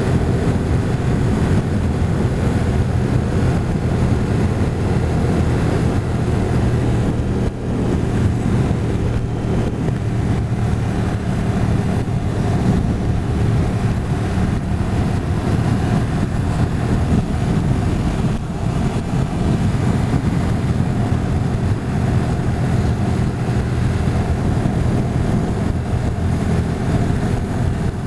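Motorcycle engine running steadily at cruising speed while being ridden, over a constant rush of road and wind noise.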